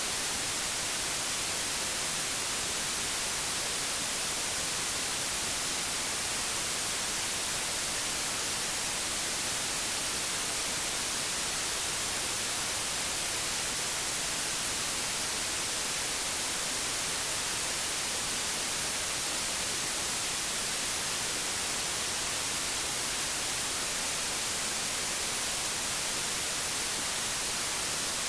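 Old analogue television static: a steady, even hiss, brighter in the high end, that does not change.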